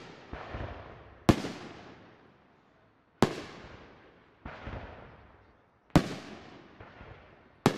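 Aerial fireworks shells bursting overhead: four sharp bangs roughly two seconds apart, with two softer bangs between them, each dying away over a second or so.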